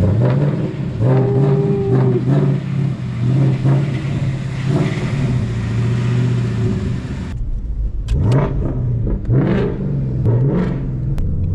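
Car engine being revved in repeated blips, its pitch climbing and dropping with each rev. It runs loud throughout, with several short rev spikes in the last few seconds.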